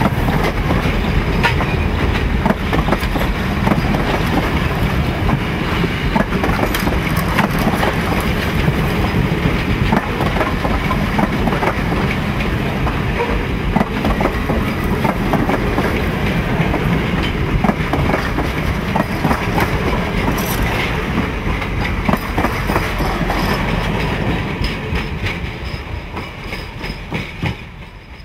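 Passenger train coaches rolling past close by: a steady rumble of wheels on rail with many sharp clicks as the wheels cross rail joints. It fades away near the end as the last car goes by.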